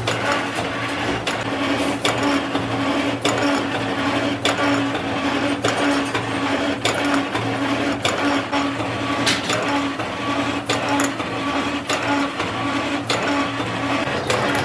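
Metalworking machine running with a steady hum, with frequent irregular sharp clicks and knocks over it.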